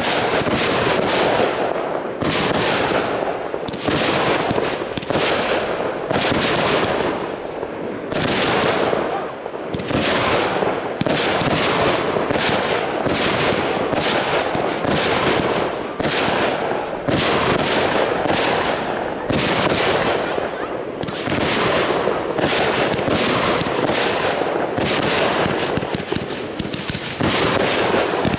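Fireworks display: a continuous string of launches and aerial bursts, sharp bangs following one another about once or twice a second, each trailing off, with crackling in between.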